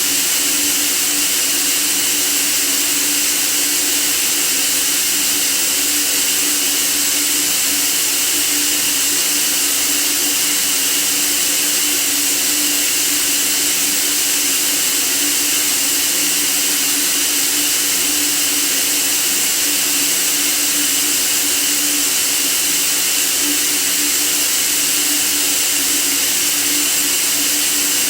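Steady white noise: an even, unchanging hiss, brightest in the treble, with a faint steady hum low beneath it.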